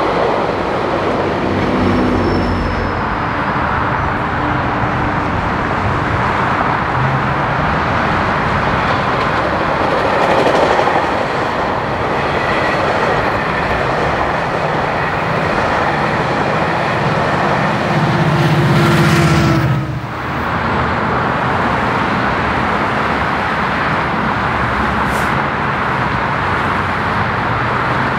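Train rolling past on the rails: a steady rumble of wheels on track, swelling briefly about two-thirds through.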